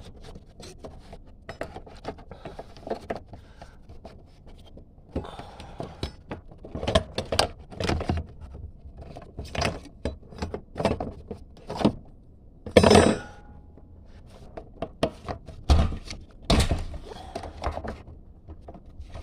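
Scattered clicks, knocks and small clatters of hands and tools working at a car's in-tank fuel pump unit, disconnecting its electrical plug and fuel line. There is a louder short rasp about two-thirds of the way through.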